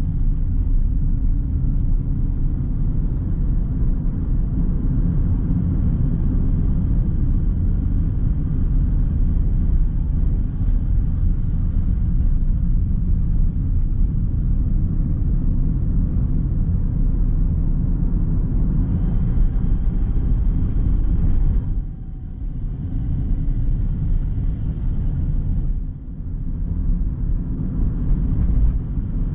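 Steady low rumble of a car driving, road and engine noise, with two brief dips in loudness about two-thirds of the way through.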